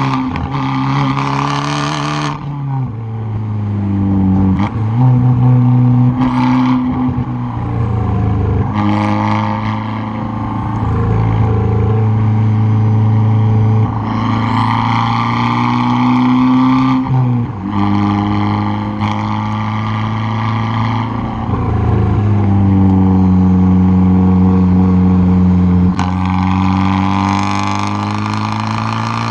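Exhaust of a 2013 Fiat 500 Abarth's turbocharged 1.4-litre four-cylinder, heard close at the rear bumper, pulling hard through the gears. The engine note holds and glides in pitch, broken about nine times by a brief drop in pitch with a short crackle where the throttle closes or a gear changes.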